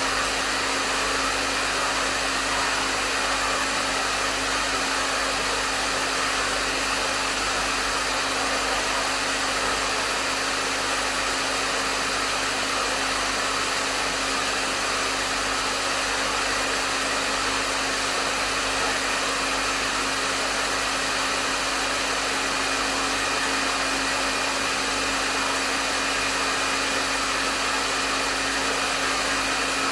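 Hair dryer running steadily, blowing air with a constant whooshing hiss and a low motor hum underneath, with no change in speed.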